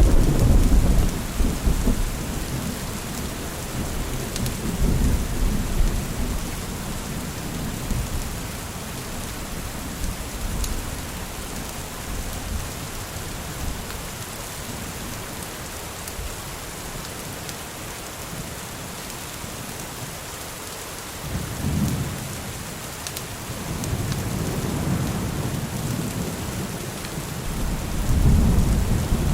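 Steady heavy rain with rolling thunder rumbling several times: a loud roll right at the start, further rolls around five seconds in, past twenty seconds, and a strong one near the end.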